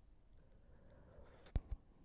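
Near silence: room tone, broken by two short clicks in quick succession about a second and a half in.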